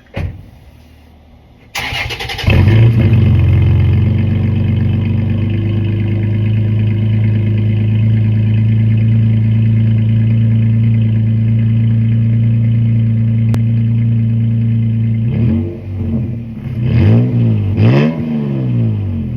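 Pickup truck engine with a new MBRP aftermarket exhaust, heard right at the tailpipe. After a brief click, it cranks and catches about two seconds in as a warm start. It then settles into a steady, deep idle. Near the end come a few quick revs, each rising and falling in pitch.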